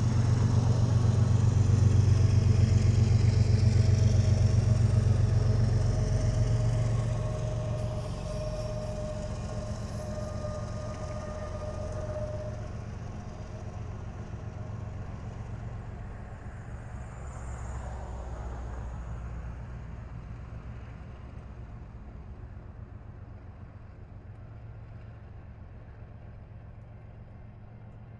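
Freight train cars rolling past on the rails: a low, steady rumble, loudest over the first several seconds and fading gradually after that. A faint thin whine runs along with it for a few seconds early on.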